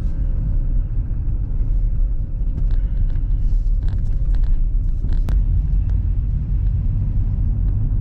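Steady low rumble of an all-wheel-drive car driving on an icy road, heard from inside the cabin, with a few brief clicks.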